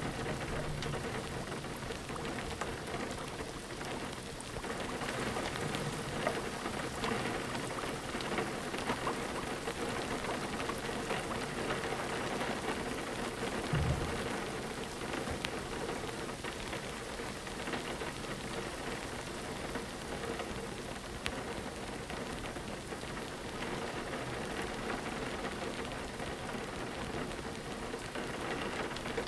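Steady rain falling and pattering on a window, with scattered small ticks and one brief low thump about halfway through.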